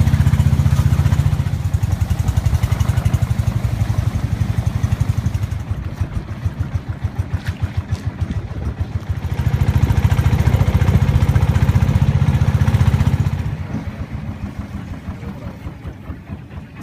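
Long-tail boat engine running loudly with a rapid pulse. It swells at the start and again from about ten to thirteen seconds in, then fades near the end.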